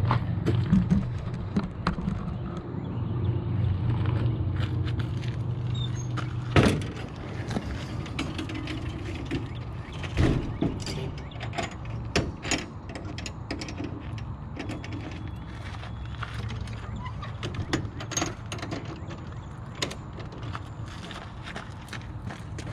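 An engine running steadily at idle, with scattered knocks and clanks of equipment being handled.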